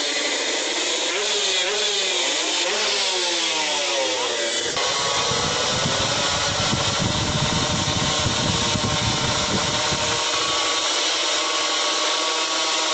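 Drag-racing motorcycle engines revving hard, two engine notes rising and falling and crossing each other. About five seconds in the sound changes abruptly to a heavy low rumble under steadier engine notes, which fades back out near ten seconds.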